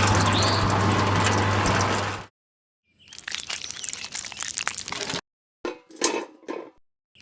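A loud rushing noise over a steady low hum for about two seconds cuts off abruptly into dead silence. After a short gap come stretches of gritty crunching and crackling, and a few short bursts near the end, each cut off sharply.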